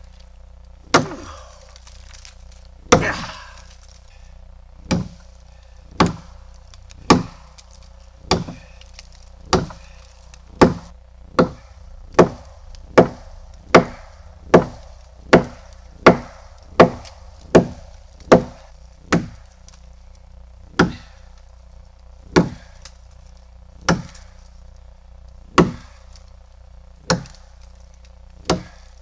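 Axe chopping into a wooden tree branch: a long series of sharp, solid blows. They come about one a second, quicken to about one and a half a second in the middle, then slow to one every second and a half near the end.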